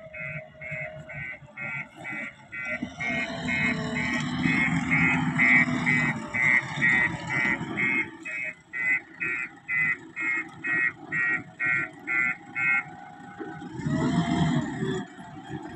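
Rapid, even beeping, about two to three beeps a second, over a low engine rumble. The beeping stops about three-quarters of the way through, and the rumble grows louder near the end.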